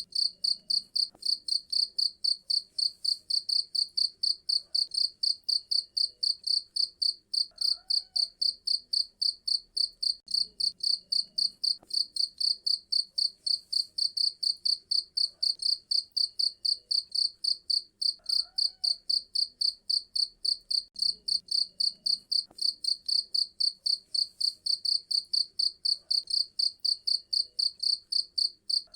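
Cricket chirping steadily, a fast, even run of high-pitched chirps at about three a second.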